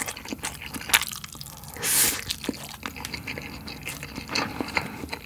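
Close-miked wet chewing of Spam and rice: a run of moist mouth clicks and smacks, the sharpest about a second in, with a brief hiss about two seconds in.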